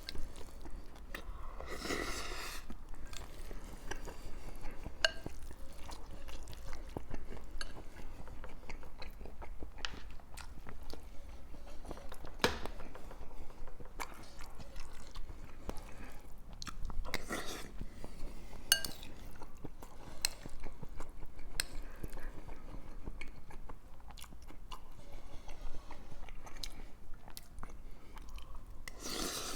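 A person chewing and biting food close to the microphone: picadillo rolled up in a tortilla, with scattered short sharp crunching clicks and a few louder bites.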